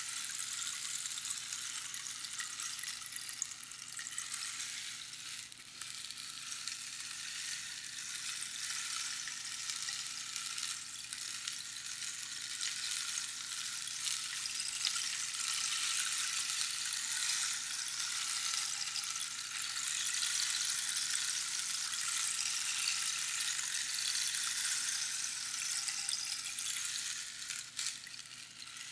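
Rainstick with small pebbles or beans trickling down past the pins inside its hollow tube, making a continuous hissing patter like falling rain. It grows a little louder through the second half, with brief dips about four seconds in and near the end.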